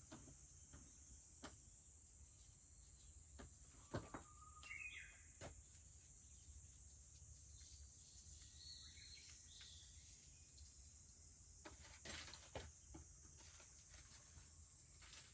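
Faint campfire crackling with scattered pops, the sharpest about four seconds in and again near twelve seconds, over a steady high drone of cicadas. A Japanese bush warbler sings briefly, holding one note and then flicking up, and a shorter bird call follows near the middle.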